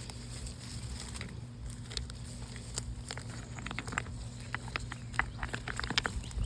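Footsteps on loose creek gravel and rock: stones clicking and crunching underfoot, a scatter of sharp clicks that grows busier in the second half.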